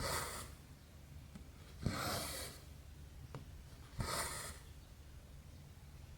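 Needle and thread being pulled through 11-count cross-stitch fabric: three strokes about two seconds apart, each a short tap as the needle goes through, then a half-second swish as the thread is drawn taut.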